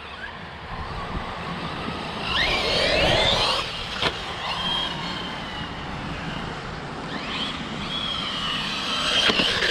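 Electric RC car's motor whining up and down in pitch as it speeds up for a jump, twice, with a sharp knock about four seconds in and another near the end as it lands.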